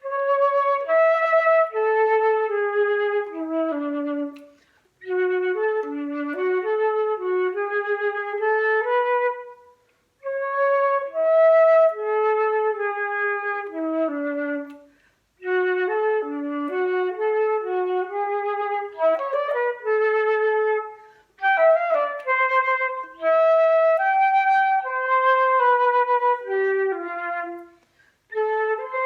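Recorder playing the second-voice part of a simple children's song melody, in phrases of about four to six seconds with short breaths between them.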